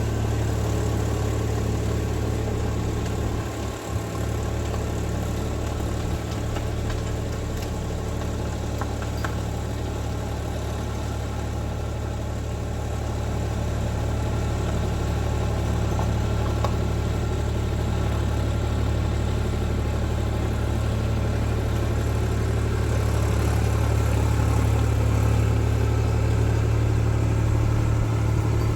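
Tractor engine running steadily at constant speed, with a brief dip and knock about four seconds in.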